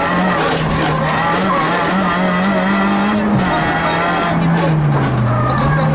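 Citroën Saxo VTS rally car's engine, heard from inside the cabin, running hard along the stage. The revs climb to a peak about three seconds in, drop sharply, dip further around five seconds and then climb again near the end.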